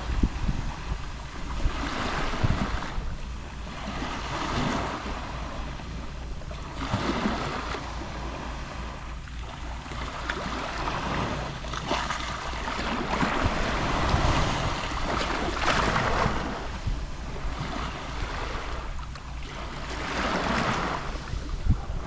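Gentle Mediterranean waves lapping on the shore, each small wash of surf swelling and fading every few seconds.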